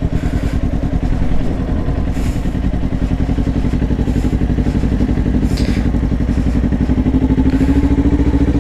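Kawasaki Ninja 400's parallel-twin engine running at low revs with a steady pulsing note, its pitch rising slightly near the end.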